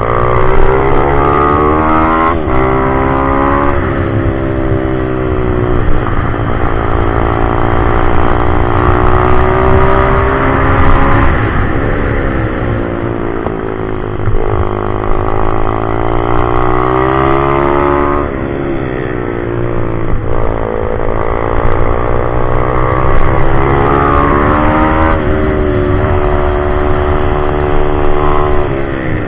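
Pit bike's single-cylinder four-stroke engine under hard riding. The revs climb for a few seconds, then drop sharply as the throttle closes or the rider shifts, about seven times, over a steady low rumble.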